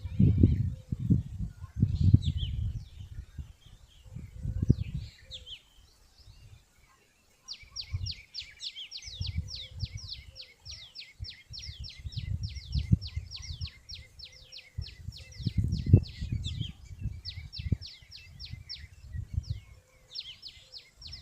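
A bird calling: a few scattered chirps, then a long, fast run of short falling chirps, about five a second, from about a third of the way in until near the end, broken by a couple of brief pauses. Low rumbling noise comes and goes underneath.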